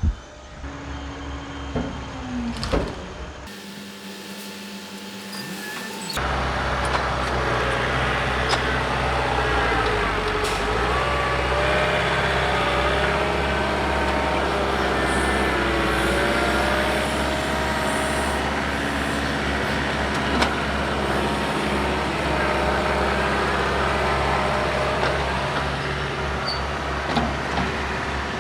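John Deere 4052R compact tractor's diesel engine working under load as it pushes dirt with a box blade, with a whine that rises and falls. It is quieter with a few knocks at first, then runs steady and louder from about six seconds in.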